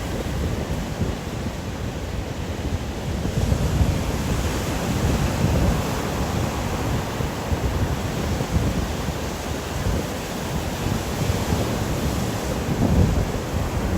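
Stormy wind blowing in gusts with rain, a steady rushing noise weighted toward a low rumble. A brighter hiss swells about three seconds in and falls back near the end.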